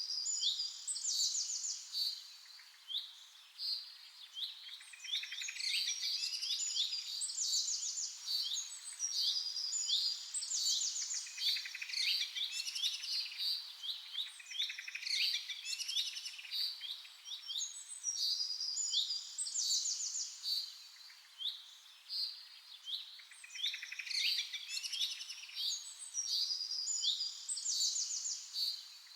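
A chorus of birds chirping and singing: many overlapping short calls and fast, rattling trills, continuous throughout.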